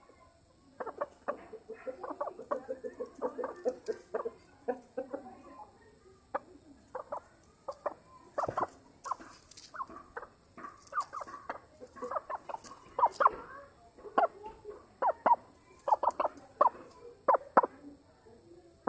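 Chickens clucking: a dense run of short clucks and calls in the first few seconds, then separate, sharper clucks that grow louder in the second half.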